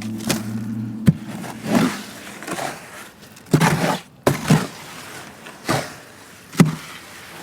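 Irregular scraping and knocking as wet concrete mix is worked and shifted in its container, about half a dozen separate strokes, with a sharp knock about a second in.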